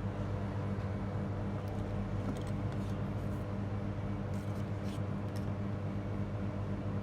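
Steady low electrical hum from the repair bench, with a few faint light clicks through the middle.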